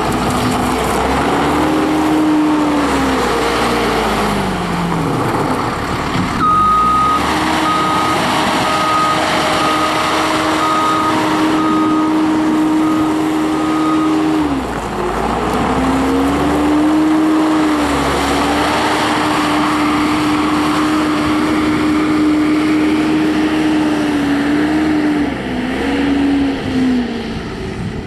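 Case 450 skid steer loader's turbocharged diesel engine running under working load, its pitch dropping and climbing again several times as the machine is worked. From about six seconds in, its backup alarm gives a string of short, evenly spaced beeps for several seconds while it reverses.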